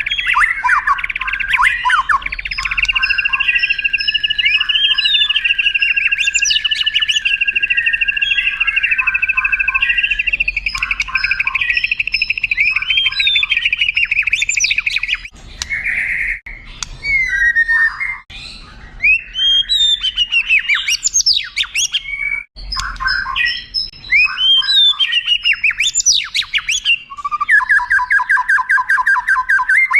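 White-rumped shama (murai batu) singing a long, varied song. It holds a long, steady trill for about twelve seconds, then breaks into varied sweeping whistles and calls, and ends on a fast rattling trill.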